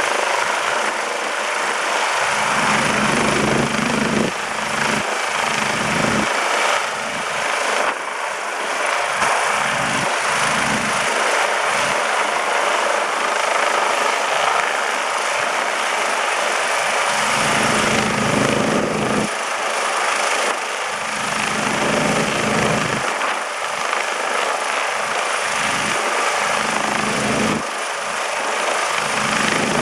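Rescue helicopter's rotor and engine running loud and steady close by, with irregular low gusts buffeting the microphone.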